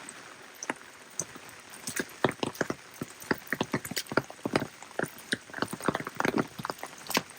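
Rain falling, with large drops landing as separate sharp taps over a soft hiss. The taps are sparse at first and come thick and irregular, several a second, from about two seconds in.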